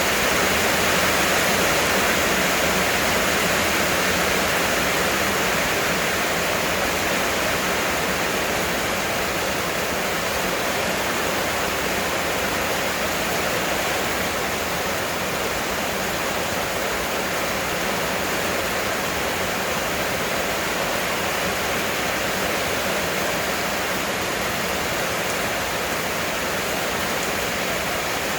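Heavy rain pouring down steadily, a dense even hiss that eases slightly over the first several seconds.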